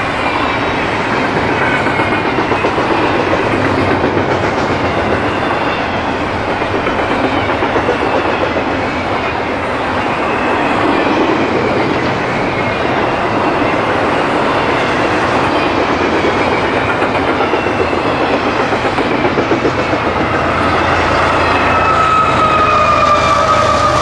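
Double-stack intermodal freight cars rolling past at speed: a steady rumble with wheels clattering over the rail joints. Near the end a steady pitched whine comes in, falling slightly in pitch.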